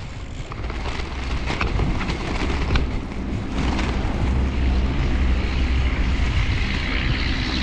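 Wind rushing over a helmet-mounted microphone with tyre and road noise from a bicycle riding fast through snow, a dense low rumble that builds louder over the first few seconds.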